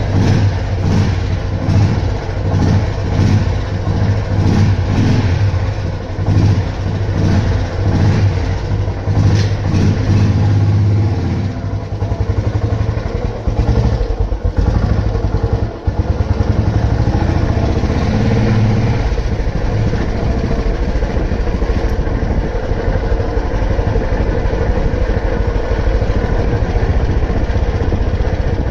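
Old Royal Enfield Bullet 350's single-cylinder engine running, pulsing up and down about twice a second for the first ten seconds or so, then settling into a steadier run.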